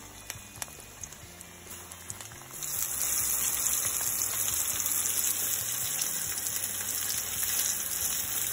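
Flour-dredged rabbit liver bites deep-frying in hot oil in a frying pan: a soft sizzle with a few sharp pops, then a louder, steady high sizzle from about two and a half seconds in.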